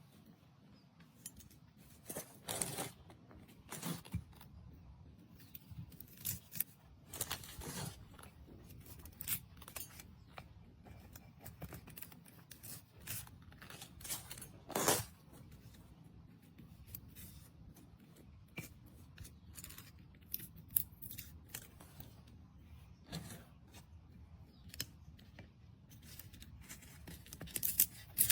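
Irregular short, crisp snips and rustles, like scissors cutting and plant material being handled, spaced unevenly with a few louder ones.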